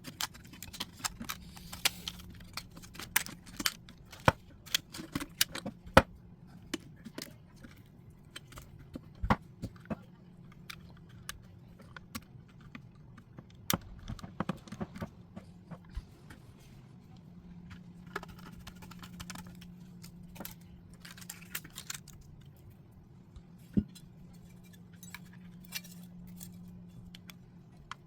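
Small metal and plastic parts of an Onity electronic door lock clicking and clinking as it is reassembled by hand, in irregular sharp taps, a few louder knocks among them.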